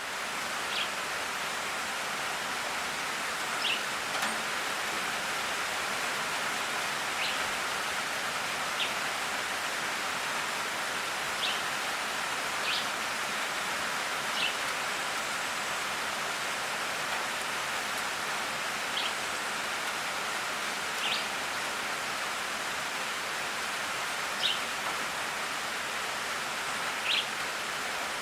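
Steady hiss of falling rain, with short high chirps from a calling animal every one to three seconds.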